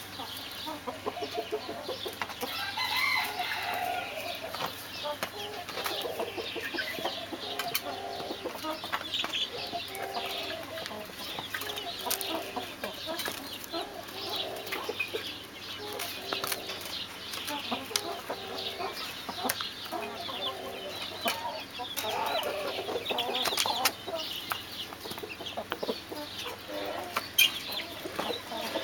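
A flock of Brahma chickens clucking, with many short calls overlapping throughout.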